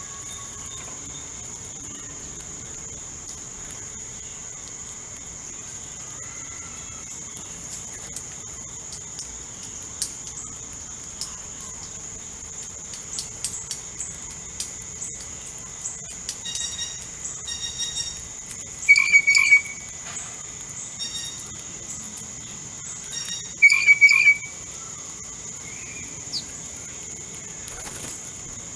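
Steady high-pitched insect drone with birds calling over it: scattered chirps, then two short loud bursts of calls in the second half.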